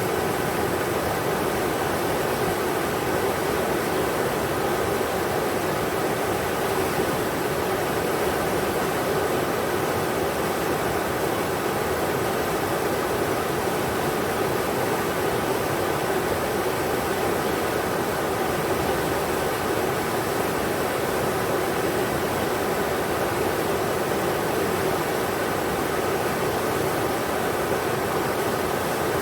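The Englishman River rushing over rocks: a steady, even rush of water that doesn't change.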